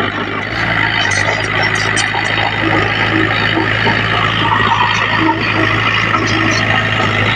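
Diesel engine of heavy earthmoving machinery (bulldozer or dump truck) running steadily, with a constant low drone under dense mechanical noise.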